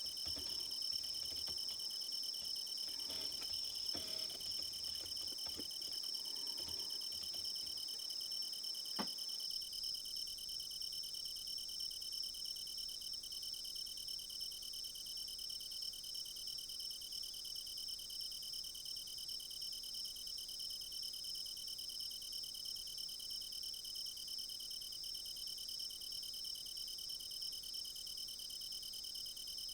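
Steady, high chorus of crickets. In the first nine seconds or so there are faint small clicks and taps, with a sharper click about nine seconds in.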